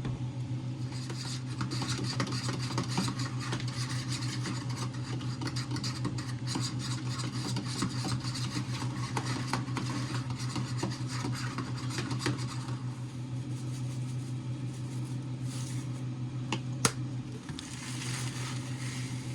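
Continuous rough scraping and rubbing of kitchen food preparation, like stirring or mixing in a bowl or pan, over a steady low hum. A single sharp click sounds near the end.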